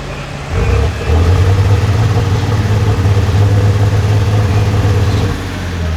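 A competition pulling vehicle's diesel engine running hard. It revs up about half a second in, dips briefly near one second, holds steady at high revs, then eases off near the end.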